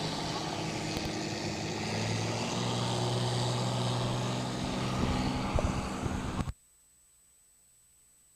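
1955 Oliver tractor's turbocharged 310-cubic-inch Waukesha engine running steadily, getting a little louder about two seconds in; the sound cuts off abruptly about six and a half seconds in.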